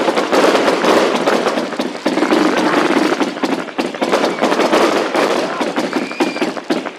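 Fireworks display going off in a dense run of rapid, overlapping crackles and pops, easing off right at the end.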